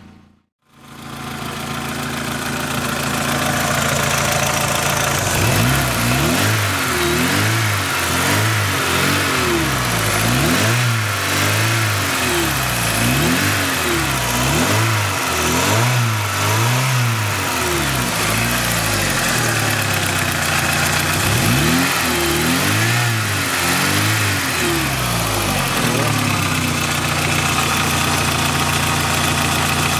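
Car engine idling, then revved again and again in short rises and falls for about twenty seconds, and settling back to a steady idle near the end.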